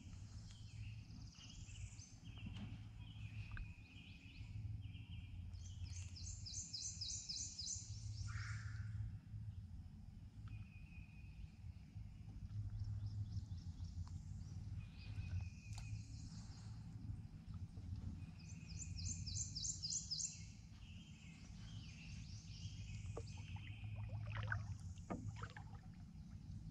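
Wild birds singing and calling, with two rapid high trills lasting about two seconds each, about six and nineteen seconds in, and scattered shorter chirps between them. Underneath runs a faint steady low rumble.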